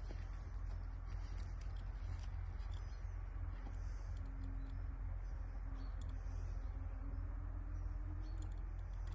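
Light scattered clicks and soft scuffs of steps on the ground during a walk, over a steady low rumble. A faint hum comes in about three and a half seconds in and fades near the end.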